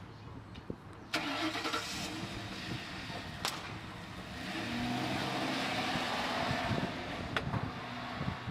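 Mercury Grand Marquis V8 engine starting about a second in, then running, getting louder about halfway through. A couple of sharp clicks sound over it.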